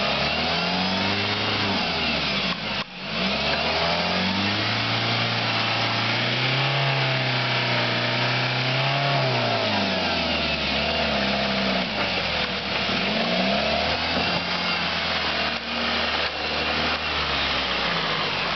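Car engine revving up and down as it works the car over obstacles on a rough forest track. The revs climb about four seconds in, hold high for several seconds, then fall back and rise and fall again.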